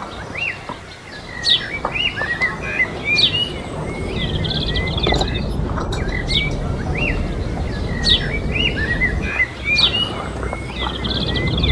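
Small birds chirping over and over in quick, short calls, over a steady low rumble.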